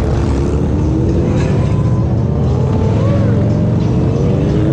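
Motorcycle engine running steadily under way, its pitch climbing slowly near the end as it picks up speed.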